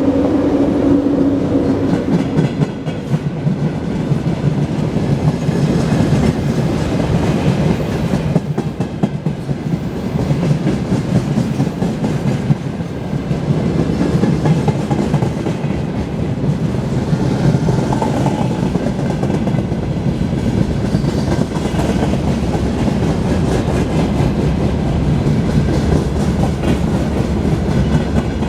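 Freight train rolling past, its wagons' wheels clattering steadily over the rails. A hum fades out in the first couple of seconds.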